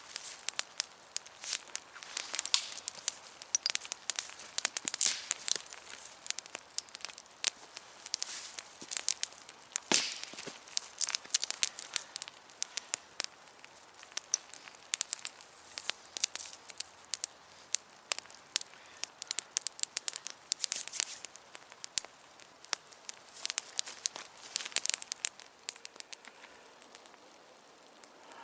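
Wood campfire crackling and popping in dense, irregular snaps.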